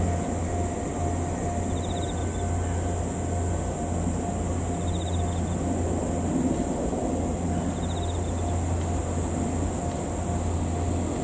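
Continuous high-pitched insect buzzing over a steady low hum, with a short chirp about every three seconds.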